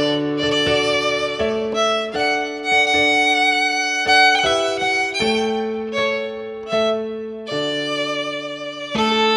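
Instrumental Christmas carol music: a violin plays a slow melody of held notes over sustained accompanying chords.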